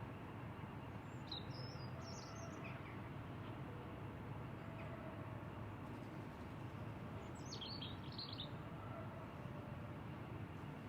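Two short high-pitched bird song phrases, one about a second in and another about seven seconds in, over a steady low ambient hiss.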